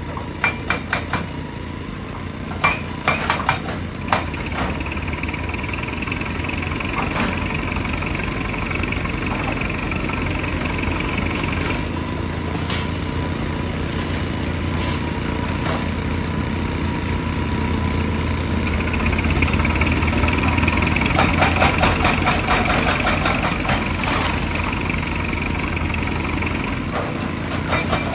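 JCB excavator's diesel engine running steadily under load, with a high whine that comes and goes twice for several seconds. A handful of sharp knocks come in the first few seconds, and a run of rapid knocking comes about two-thirds of the way in.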